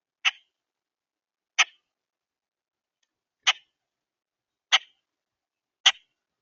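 Five sharp, dry clicks or taps, irregularly spaced one to two seconds apart, with near silence between them.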